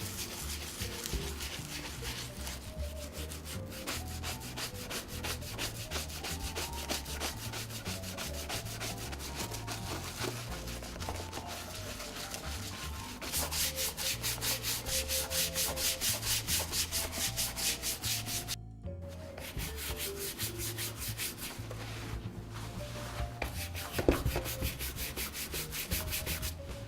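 A stiff bristle brush is scrubbed rapidly back and forth over a leather boot, several strokes a second. The strokes grow louder for a few seconds mid-way, stop briefly, and there is a knock near the end.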